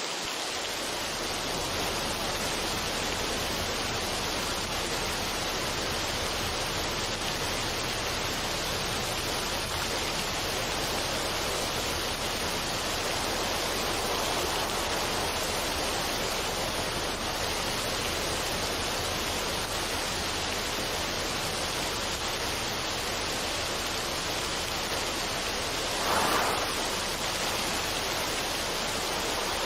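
Steady, even rushing noise with no tune or beat, holding at one level throughout. It swells briefly about 26 seconds in.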